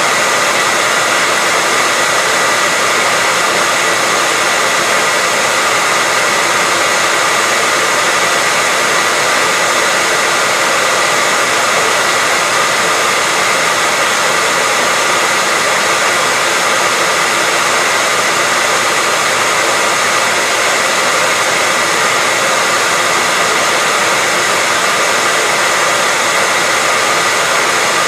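Hair dryer running continuously: a steady, unchanging hiss of blown air with a thin high whine from the motor.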